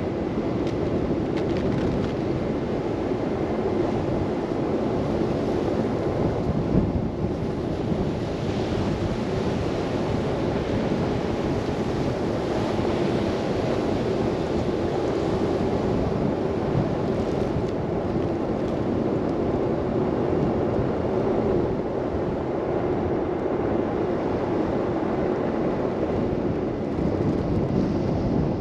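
Steady low rushing of wind in a snow blizzard, mixed with the road rumble of a car driving.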